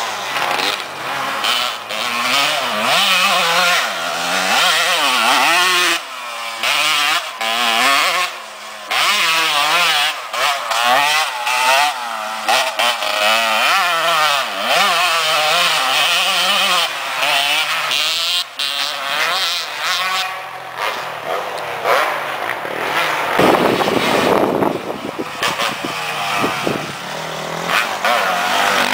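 Motocross dirt bike engines revving hard, the pitch climbing and dropping again and again with throttle and gear changes. The sound swells louder for a few seconds about three quarters of the way through.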